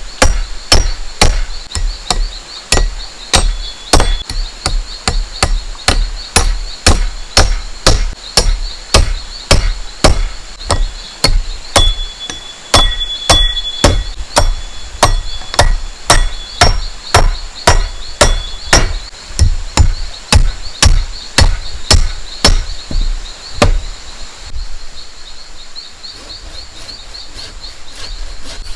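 A tool striking bamboo in steady blows, about two a second, which stop about four seconds before the end. Insects buzz steadily and high-pitched behind.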